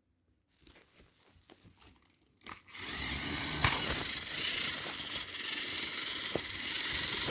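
Battery-powered toy train motors whirring steadily under load as two engines push against each other. The whir starts with a click about two and a half seconds in, after a few faint handling clicks.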